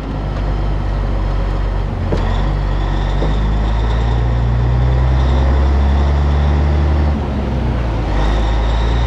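A semi truck's diesel engine running loud and steady under load as the truck gets under way. Its note breaks briefly about two seconds in and again about seven seconds in, and a faint high whine sits over it.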